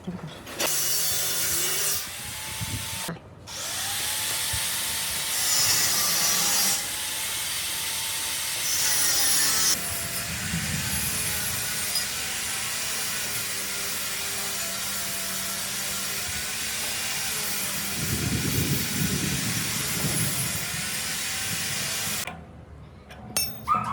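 A power tool running under load in long stretches. It stops briefly about three seconds in and cuts off shortly before the end.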